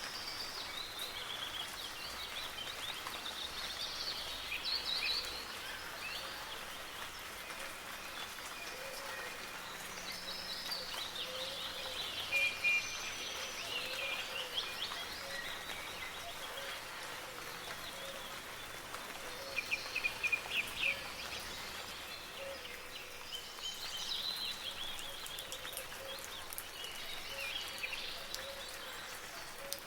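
Several songbirds chirping and trilling over a steady hiss of soft rain, with a louder rapid trill about twelve seconds in and again around twenty seconds.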